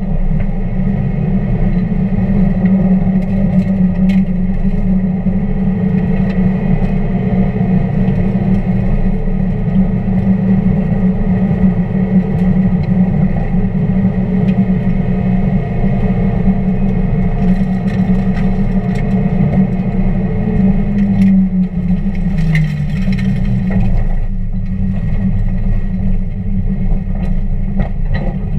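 1999 Mazda Miata's 1.8-litre four-cylinder engine running at a steady drone, with its note falling briefly about three quarters of the way through as it eases off.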